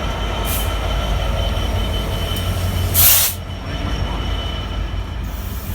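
Ballast train hauled by a Class 66 diesel rolling past: a steady low rumble of wagons on the rails with a thin, steady high wheel squeal. A short loud hiss about three seconds in.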